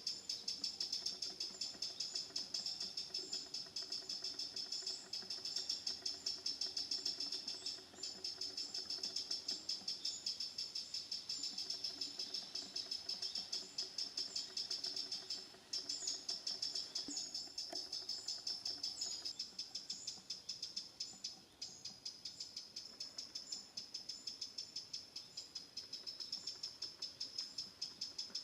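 Chirping insects: a steady, high-pitched chorus of rapid, evenly repeated pulses.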